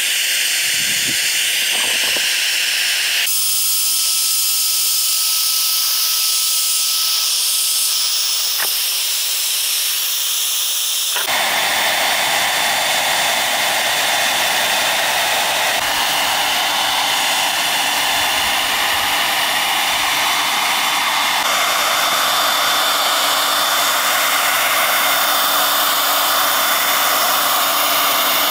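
A steady, loud hiss of rushing air from a workshop tool. It changes character abruptly about three seconds in and again about eleven seconds in, becoming fuller at the second change.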